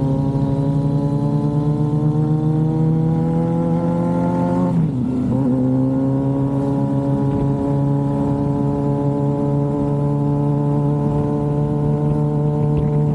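Suzuki GSX-R750 sport bike's inline-four engine pulling under acceleration, its pitch slowly climbing. About five seconds in the pitch drops sharply as it shifts up a gear, then it climbs slowly again.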